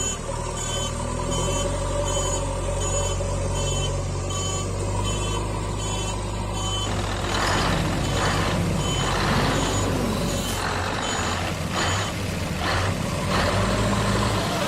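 Truck reversing alarm beeping about three times every two seconds over a steady low engine drone. About halfway through, loud rushing, hissing surges take over, with a few more beeps among them.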